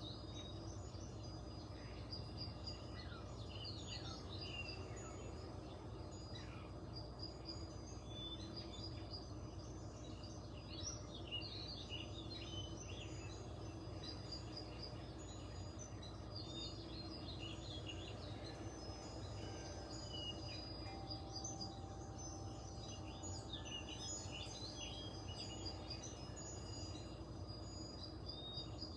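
Faint bird chirping in scattered clusters of quick, sweeping chirps, over a steady low hum.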